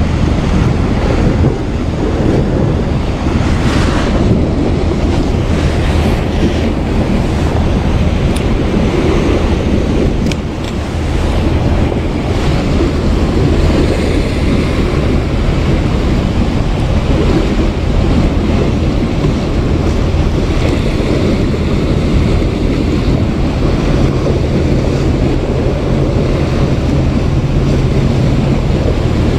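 Wind buffeting the microphone over the wash of sea waves. Near the end a low steady hum joins in.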